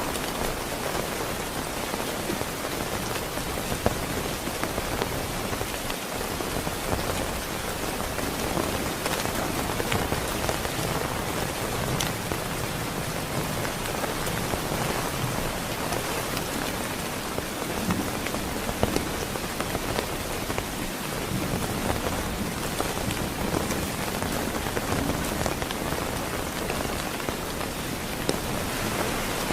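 Heavy rain falling steadily, a dense even hiss with scattered sharper drop taps.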